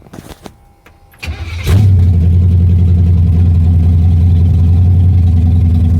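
Pontiac Strato Chief engine being started: a brief crank, then it catches about a second and a half in and keeps running steadily and loudly.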